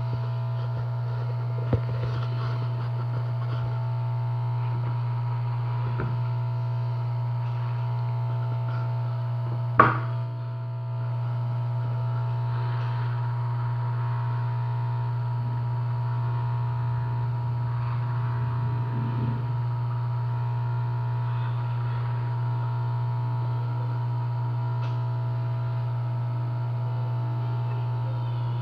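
Steady low electrical hum with a thin steady high whine above it, broken by a sharp click about two seconds in and a louder click about ten seconds in.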